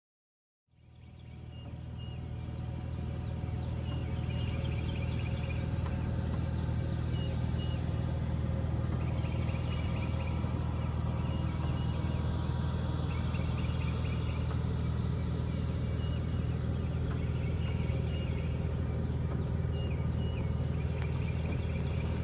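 Outdoor night chorus of insects, a steady high-pitched drone with short chirping calls repeating every second or two, over a steady low hum. It fades in over the first few seconds.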